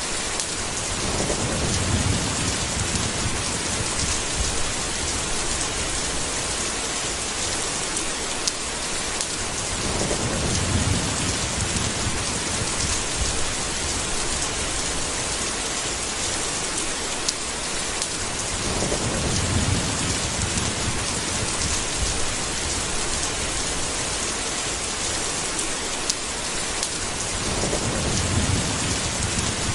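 Steady rain hiss with low rolls of thunder, four of them about nine seconds apart, each lasting two to three seconds.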